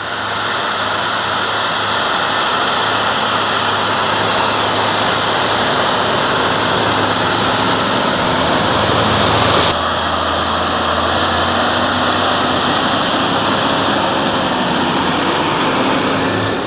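SAME Diamond 215 tractor engine running steadily under load while pulling a plough. The note drops abruptly nearly ten seconds in.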